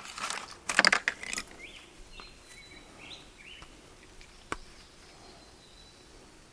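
Rustling, scraping handling noises for about a second and a half, then a quiet outdoor background with several short bird chirps and one sharp click about four and a half seconds in.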